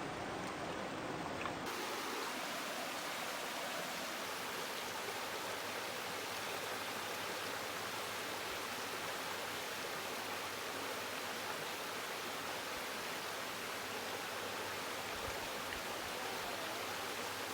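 Creek water running with a steady rushing sound.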